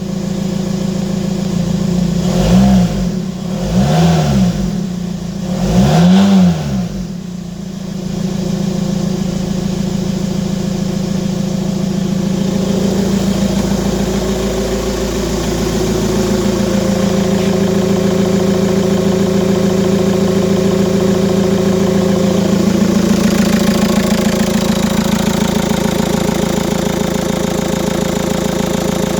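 Cadillac car engine running: it is revved three times in quick succession, each rev rising and falling in pitch, then settles into a steady idle.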